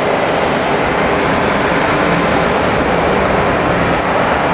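Jet engines of a Boeing 767-300 on its takeoff run, a loud steady roar with a faint high whine on top.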